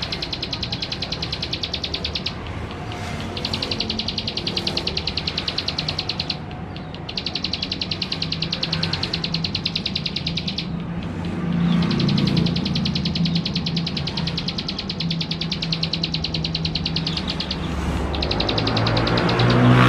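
Male ciblek sawah (plain prinia) singing: long, rapid trills of evenly repeated high notes in bouts of a few seconds, with short breaks between them. A low rumble runs underneath.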